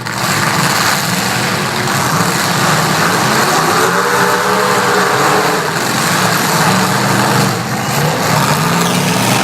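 Demolition derby trucks' engines running loud and revving, with one engine's pitch rising and falling about four seconds in.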